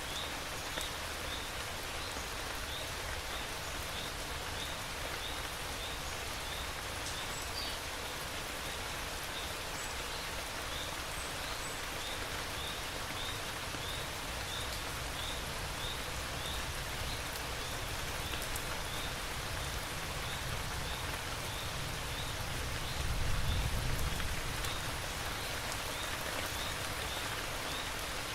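Steady rain falling, with a short high chirp repeating about every 0.7 s through it. A brief low rumble swells about 23 seconds in.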